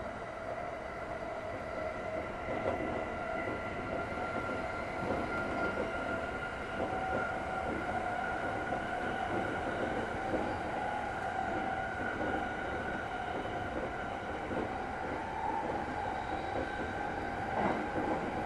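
Running sound inside a JR East E231 series electric train: a steady motor whine that climbs slightly in pitch as the train gathers speed, over the rumble of wheels on rail.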